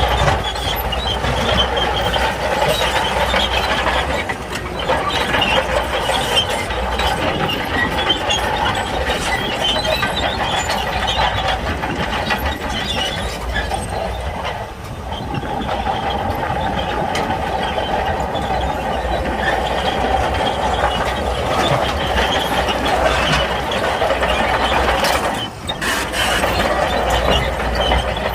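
Shantui crawler bulldozer working: engine running with continuous metallic clanking and rattling from its steel tracks, with a brief drop about three-quarters of the way through.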